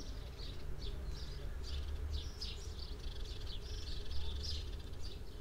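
Small birds chirping in short, high, repeated notes, two or three a second, over a steady low rumble of outdoor background noise.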